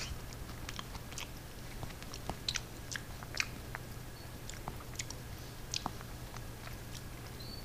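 A person chewing a mouthful of soft baked squash: scattered small wet mouth clicks and smacks over a steady low hum.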